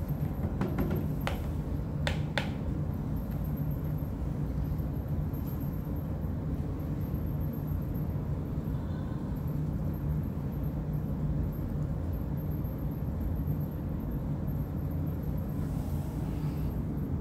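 Steady low background hum and rumble, with a few light taps or clicks in the first couple of seconds.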